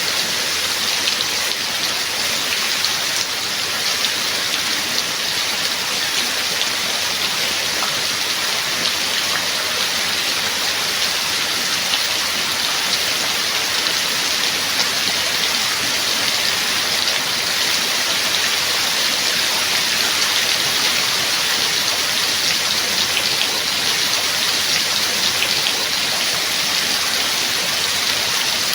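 Steady rain falling: a dense, even hiss of many drops with fine individual drop taps, holding constant throughout.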